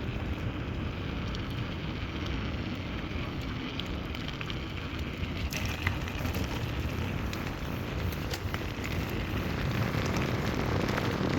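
Dry leaf litter and twigs crackling and rustling as they are walked through, with wind rumbling on the microphone. The crackles come thicker from about halfway through.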